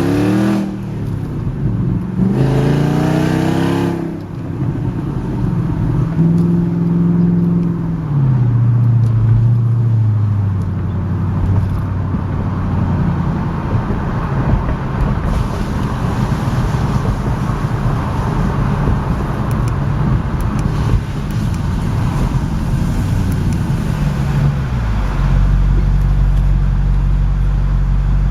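2001 Audi S8's V8 engine running with its mufflers bypassed, because the exhaust has separated between the catalytic converters and the mufflers. Early on the note rises as the car accelerates, then falls away as it slows. It holds steady for a while, and about 24 seconds in it drops to a steady low note.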